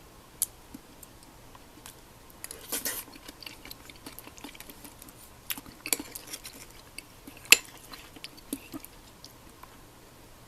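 Scattered clinks and taps of kitchen utensils against dishes and cookware, with a short scraping rustle about three seconds in and one sharper knock about seven and a half seconds in.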